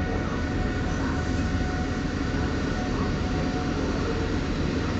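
Steady rumble of rail traffic at a railway station, with a thin electric whine that fades out about four seconds in.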